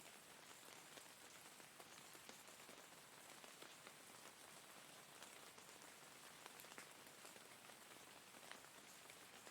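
Faint steady rain, with many small drop taps scattered through it.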